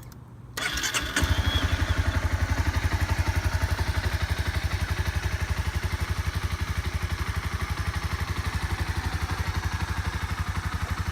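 2016 Honda CBR300R's single-cylinder engine turned over by the electric starter, catching after about half a second of cranking and then idling steadily with an even pulse through the stock exhaust.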